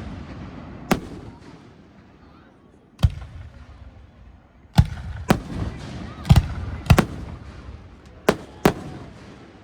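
Aerial firework shells bursting: about nine sharp booms, each with a low rumbling tail. The first two come a couple of seconds apart, then they follow in quicker succession from about five seconds in.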